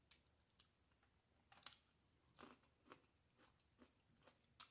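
A person chewing food close to the microphone: faint wet smacks and mouth clicks about twice a second, the sharpest one near the end.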